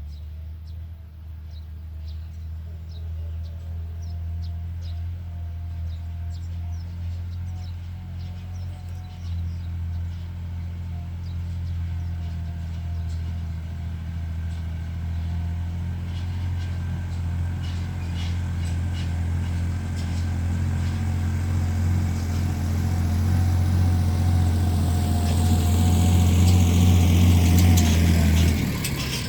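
Small tractor's engine running steadily while pulling a disc harrow, growing louder throughout, with scattered light ticking and clattering over it; the drone cuts off abruptly near the end.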